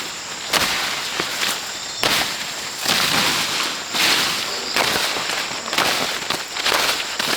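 Repeated sharp knocks or chopping strikes, roughly one a second, some louder than others, over a steady rushing hiss.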